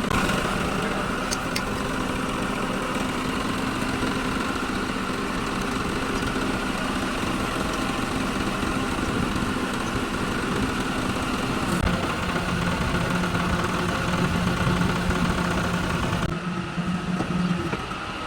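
An engine running steadily at idle. Near the end the sound changes abruptly to a duller, lower running sound.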